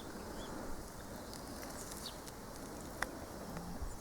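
Quiet garden ambience: faint steady background noise with a bird's short chirp near the start and a few faint high chirps later, plus a single click about three seconds in.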